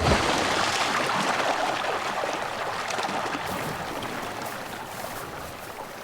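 A splash into water right at the start, then water churning and trickling that slowly fades away.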